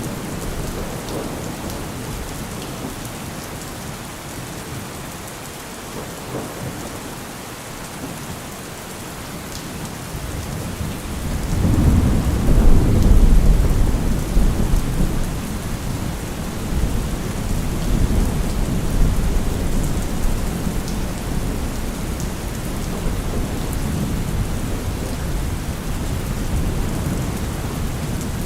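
Steady rain falling, with a long roll of thunder that builds a little over a third of the way in, peaks, and then keeps rumbling more softly under the rain.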